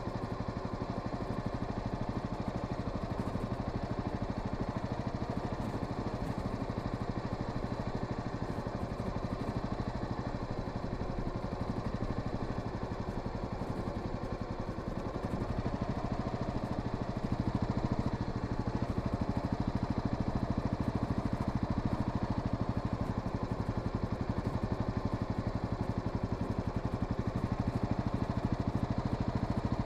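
Honda Sahara 300 single-cylinder motorcycle engine running steadily under way. It grows louder from about halfway through as the engine pulls harder.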